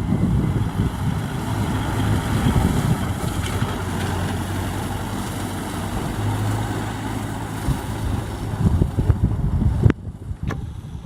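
Kubota M6040SU tractor's diesel engine running steadily, with gusting wind on the microphone. About ten seconds in there is a sharp click and the sound drops away abruptly.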